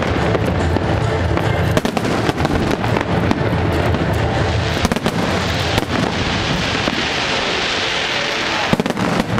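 Aerial fireworks going off in rapid succession: repeated bangs over a dense crackle, with a hissing crackle swelling from about the middle until shortly before the end.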